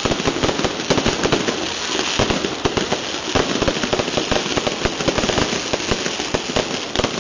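Fireworks going off in a rapid, continuous run of bangs and crackles, many per second, over a hissing wash of sparks.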